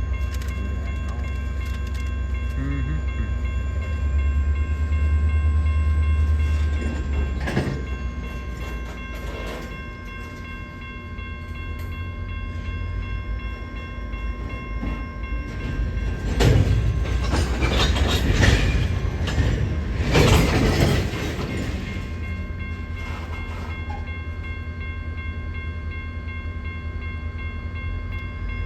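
A train running by with a steady low rumble, growing louder with a stretch of clattering and rattling noise from roughly 16 to 21 seconds in.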